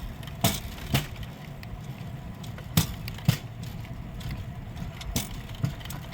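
Steel wheels of a pedal-powered rail bike rolling along old jointed track, with a steady low rumble. Sharp clacks come in pairs, front then rear wheels, as they cross each rail joint, three times.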